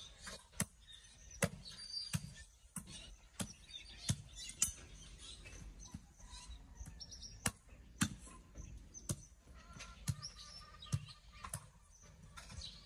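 A run of sharp knocks or taps at uneven intervals, roughly one every half second to a second, over faint outdoor background with birds chirping.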